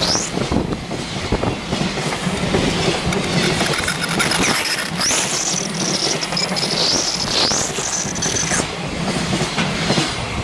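A train passing close by, its wheels clattering over the rails, with high squeals that rise and fall several times.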